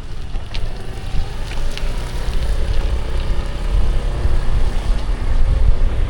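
Wind buffeting the microphone of a moving bicycle, a heavy low rumble over city traffic with a faint motor hum and a few light clicks in the first two seconds.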